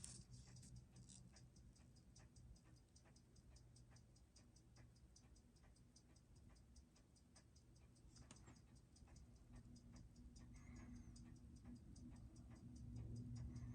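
Seiko 6R15 automatic watch movement ticking, a faint, fast, even train of beats, with one louder click about eight seconds in. The movement is under regulation with its balance not yet running right and its beat error still off; the fault lies in a hairspring that had been tampered with.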